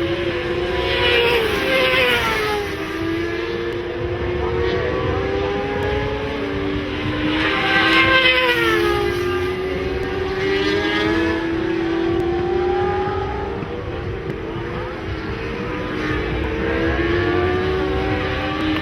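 Several racing motorcycle engines running at high revs as bikes go by, their pitches overlapping and rising and falling with gear changes. One bike passes loudest about eight seconds in, its pitch dropping as it goes.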